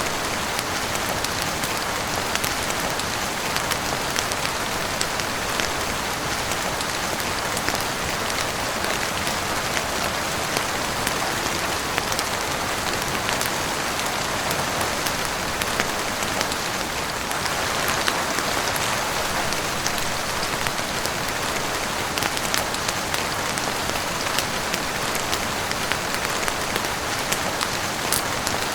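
Heavy rain falling steadily on a roof and windows, with frequent sharp crackles from a wood fire in a fireplace mixed in.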